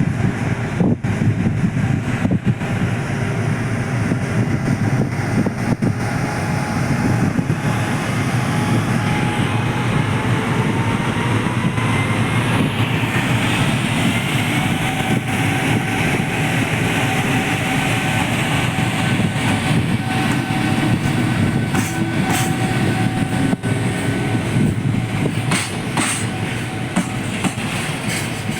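Freight train passing close by: a steady rumble of wheels on rails with clickety-clack over the rail joints. A faint whine rises around the middle and then holds, and sharper clicks come near the end.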